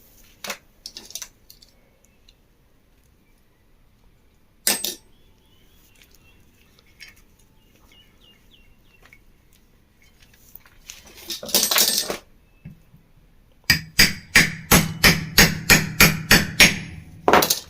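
Hammer tapping a thin rod that packs candle wax into a ceiling fan's bearing housing, forcing the ball bearing out by wax pressure. A few single knocks, a brief rasping noise about eleven seconds in, then near the end a fast run of about a dozen sharp metallic taps, three to four a second.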